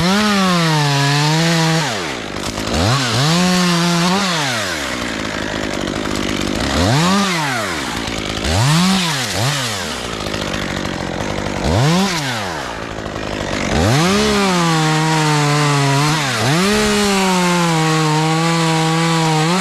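Gasoline chainsaw being throttled up and down over and over, its note rising and falling, with several held full-throttle stretches where the pitch sags a little as the chain cuts into wood.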